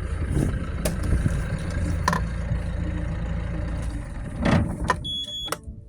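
The yacht's inboard engine running with a steady low rumble, with several knocks and clunks, the loudest about four and a half seconds in. A short high tone sounds near the end.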